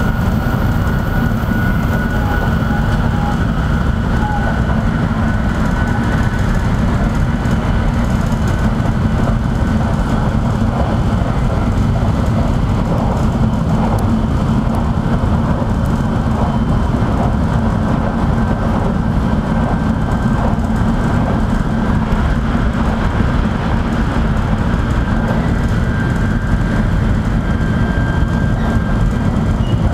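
Tokaido Shinkansen running at speed, heard inside the passenger car: a steady low rumble with a faint thin whine above it.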